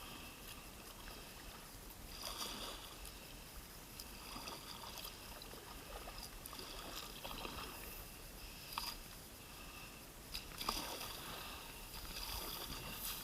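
Kayak paddle strokes in the water, a soft dip and splash every couple of seconds, with a couple of sharp knocks in the middle.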